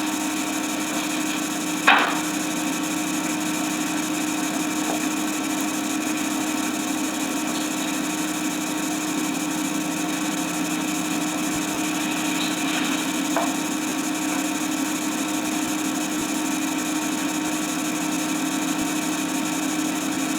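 Steady hiss and hum of an old recording's soundtrack, with no voice or music. There is one sharp click about two seconds in and a couple of faint clicks near the middle.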